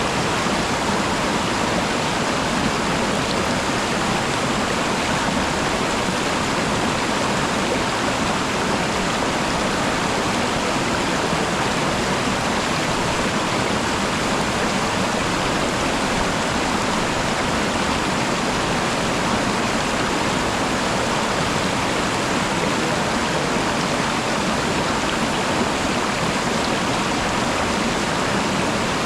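Waterfall: a steady, unbroken rush of falling water that holds at the same level throughout.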